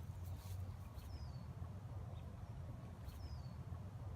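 Outdoor ambience: a steady low rumble, typical of wind on the microphone, with a bird giving a short, high, falling chirp about every two seconds.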